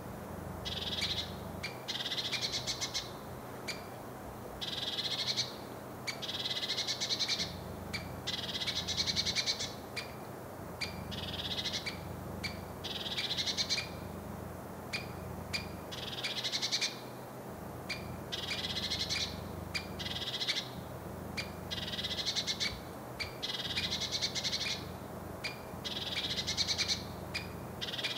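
Lesser spotted woodpecker giving its alarm call: series of rapid, high, repeated notes, each series about a second long, coming again every one to two seconds.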